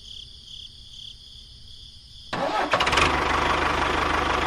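Crickets chirping, then about halfway through a small engine on a homemade mini cultivator tractor starts abruptly and settles into a loud, steady run with a fast, even firing beat.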